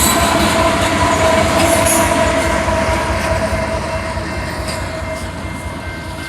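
A train passing close by, its wheels rumbling and clattering over the rails, with a steady high tone over it that fades out after about four seconds; the sound eases off slightly as it goes by.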